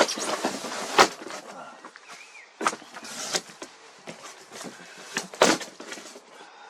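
Irregular knocks, scrapes and rustles of hands working on a boxed electric scooter to unpack it. The sharpest knocks come at the very start, about a second in and about five and a half seconds in.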